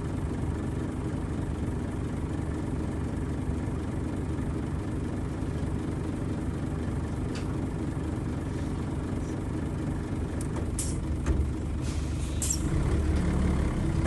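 Nissan Diesel FE92TA turbocharged diesel bus engine idling steadily. Some ten to twelve seconds in come a few short, sharp hisses of air, and then the engine note grows louder as it takes up load.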